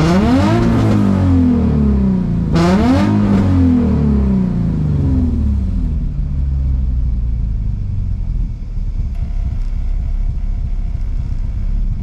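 Nissan 350Z's swapped VQ35HR V6, running with the exhaust cut off ahead of the muffler, is revved twice to about 3,000 rpm. Each rev sinks back over a couple of seconds, and then the engine idles steadily. It is sluggish to rev, which the owner guesses is from a broken-up catalytic converter clogging the exhaust.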